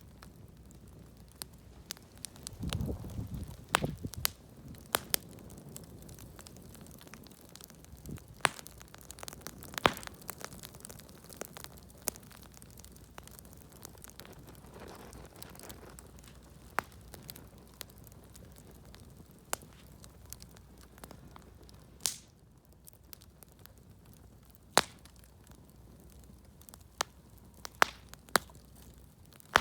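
Wood fire crackling, with sharp irregular pops from the burning scraps of old, decayed shed wood. A brief low rumble sounds about three seconds in.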